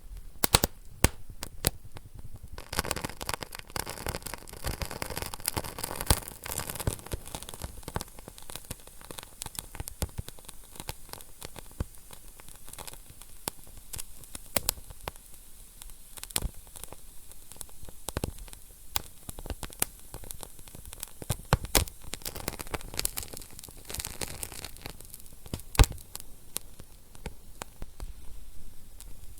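Wood fire burning in a fireplace: a steady hiss with constant irregular crackles and sharp pops, and one louder pop near the end. The hissing is thicker in the first quarter.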